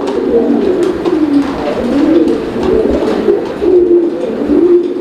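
Many domestic pigeons cooing together in a loft. The calls overlap into a continuous warbling coo.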